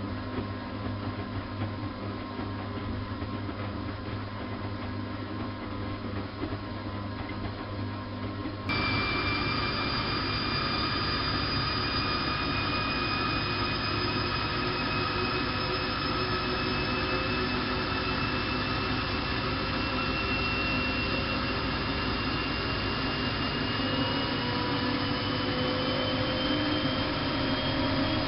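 Bosch WFK 2431 washing machine running with a steady hum, then abruptly louder about nine seconds in. Its motor then whines in several tones that rise slowly in pitch as the drum speeds up.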